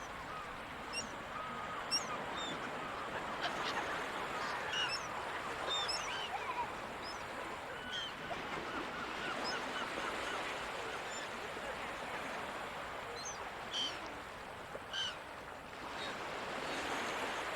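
Seagulls calling over the ocean, many short high calls scattered and overlapping, over a steady wash of surf.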